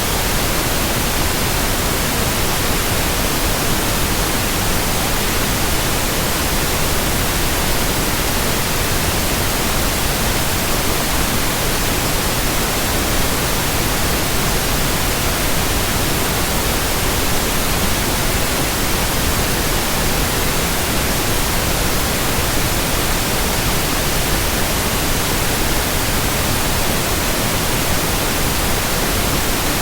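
Steady white noise: an even, unchanging hiss spread from low to high with no hum, rhythm or blade swish in it.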